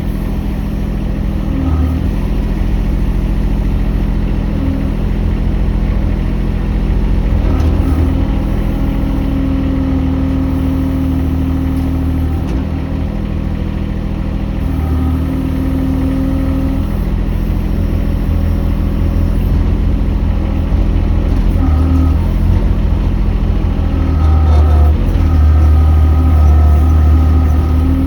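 Mini excavator's engine running steadily, a little louder near the end.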